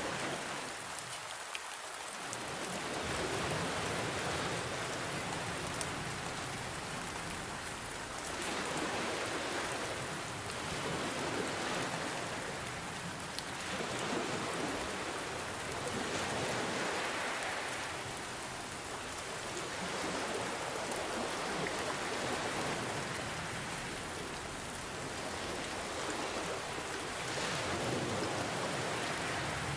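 Steady rain pattering with ocean waves washing in underneath, the sound swelling and fading every four to five seconds.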